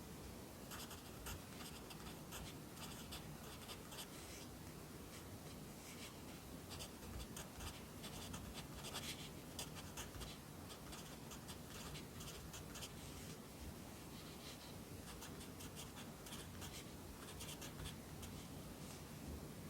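Pencil writing Korean by hand on paper: runs of short, scratchy strokes with brief pauses between words.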